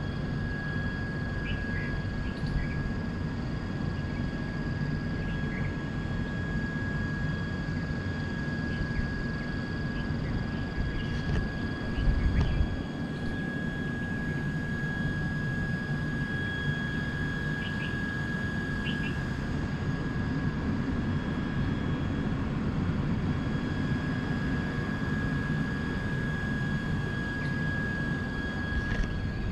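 Steady low rumble of an Indian Railways train heard at a carriage window, with a thin, steady high whine over it and a short, louder bump about twelve seconds in.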